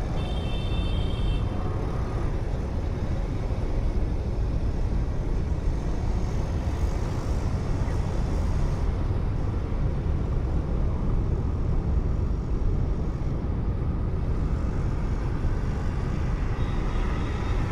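Steady road and engine noise of a moving car, heard through a dashcam. A few brief high steady tones sound in the first second or two.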